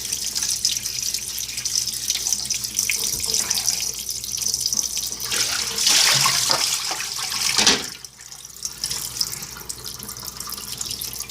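Kitchen tap running into the sink as something is rinsed under it, with water splashing. The flow grows louder and then is cut back sharply about eight seconds in, leaving a quieter trickle.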